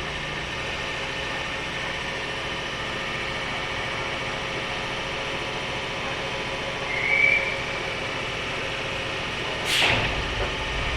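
Steady hum inside a JR West 103 series electric motor car (MoHa 102) while the train stands with no traction motor whine. A short high tone comes about seven seconds in, and a sudden loud burst near the end.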